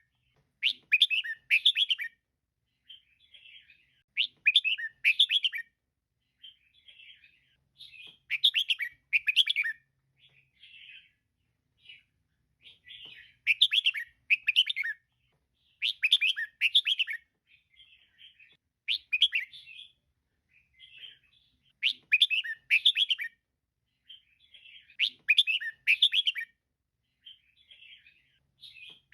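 Female red-whiskered bulbul calling: short bursts of rapid chattering chirps, a phrase every few seconds, louder phrases alternating with fainter ones.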